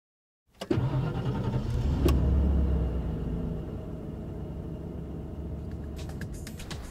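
Lincoln Navigator's 5.4-litre V8 starting up, catching with a brief rev and settling into a steady idle. A few clicks from the dashboard stereo controls near the end.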